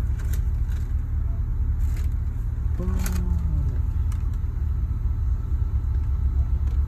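Steady low rumble of a car running, heard from inside the cabin, with a short falling vocal sound about three seconds in.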